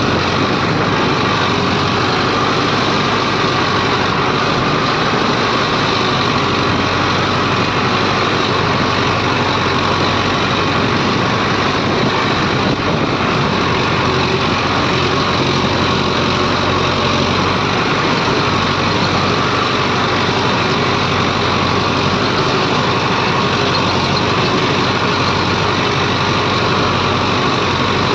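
Heavy diesel machinery engine running steadily at an even speed, with no rise or fall in pitch.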